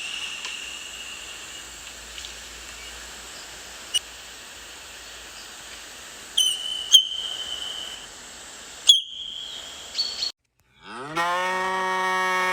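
A cow mooing: one long, loud, low call that starts about eleven seconds in, rising in pitch at its onset. Before it come three long whistled calls held at one steady high pitch, each opening with a sharp downward chirp.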